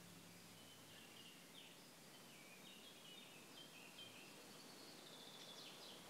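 Faint birds chirping in a quick run of short high notes over quiet outdoor background noise.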